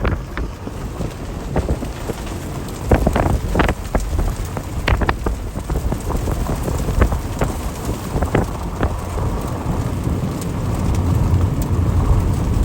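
Heavy rain falling, with scattered drops striking close by as sharp ticks over a steady low wind rumble.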